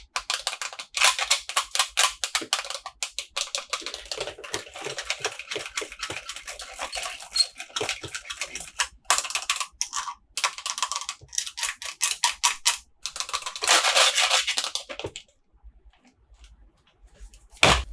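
Packaging being handled and opened: rapid crackling and rustling that goes on in busy spurts, then stops about fifteen seconds in.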